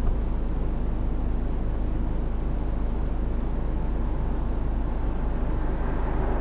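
Ford Focus 1.5 TDCi four-cylinder diesel car running, a steady low rumble of engine and road noise.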